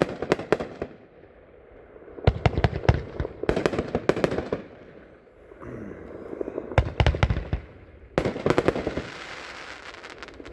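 A 24-shot angled consumer firework cake firing: clusters of sharp bangs in quick volleys with short pauses between them, and a denser run of crackling near the end.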